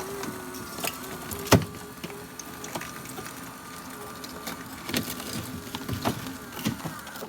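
Nissan GT-R electric seat motor, wired straight to a jump box, whining steadily as it drives the seat forward along its track. A few clicks and one sharp knock about a second and a half in.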